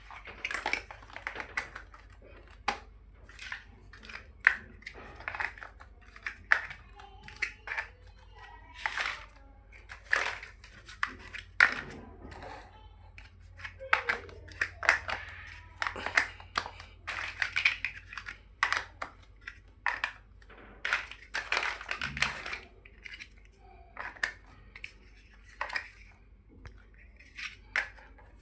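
Plastic building bricks being handled and pressed together: irregular sharp clicks and rattling taps, some in quick clusters, with a soft rustle between them.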